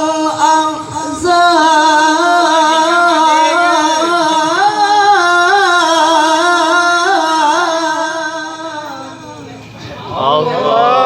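A male qori reciting the Quran in tilawah style: one long, melodic line of held, ornamented notes that waver and turn, pausing for breath near the end before a new phrase starts high.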